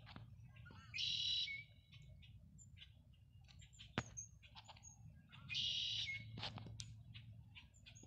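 A songbird singing, the same buzzy song twice about four and a half seconds apart, with small chirps and clicks between, over a faint low hum.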